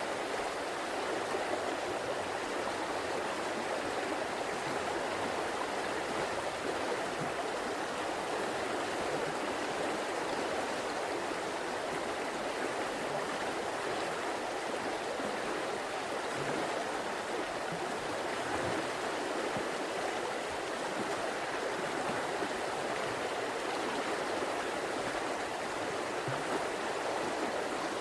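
River water flowing steadily over rocks, an even, unbroken rushing.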